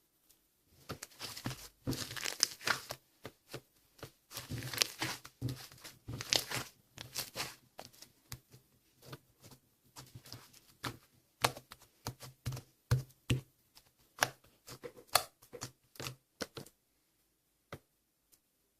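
Slime being kneaded, stretched and pressed by hand, giving runs of sticky crackling and popping clicks. The crackling stops a couple of seconds before the end, leaving only two faint clicks.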